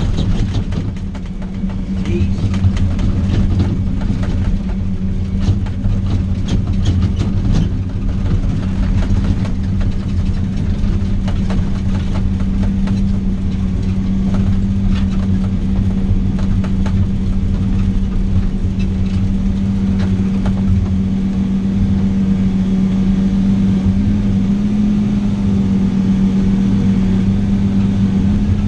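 Vehicle engine droning steadily while being driven, with a rattle of short knocks and clicks through the first several seconds.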